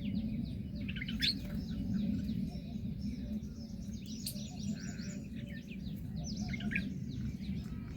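Small birds chirping: many short, high, downward-sliding chirps in quick clusters, with a steady low rumble underneath.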